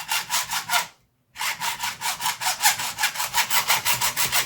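Hacksaw cutting through a black plastic blaster shell in quick, even back-and-forth strokes, about six a second. The sawing stops dead for a moment about a second in, then carries on steadily.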